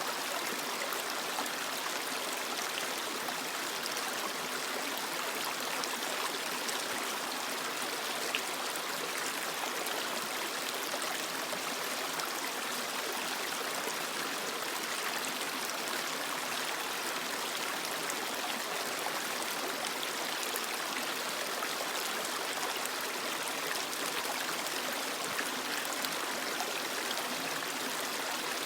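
Creek water flowing steadily over rocks: an even rushing and trickling with no pauses.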